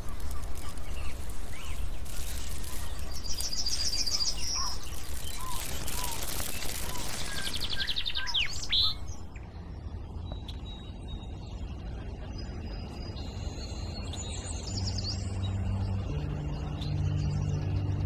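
Songbirds singing: rapid high trills and short chirps over a loud steady rushing noise, which cuts out about halfway. The second half is quieter, with a few faint chirps, and a low steady hum comes in near the end.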